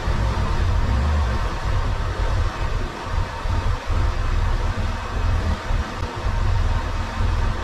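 Arctic Cat side-by-side running steadily, a heavy low rumble with a hiss above it.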